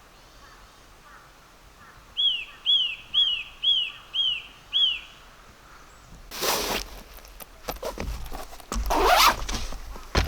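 A bird calls six quick down-slurred notes in a row. Later, two louder bursts of rustling noise follow.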